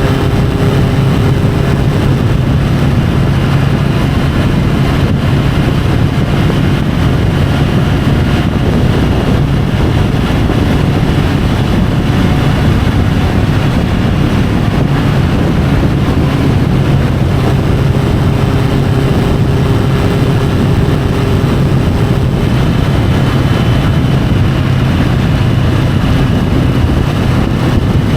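Triumph Tiger 850 Sport's three-cylinder engine running at a steady cruise under wind and road noise, heard from a camera mounted on the bike. The engine note stays nearly constant throughout.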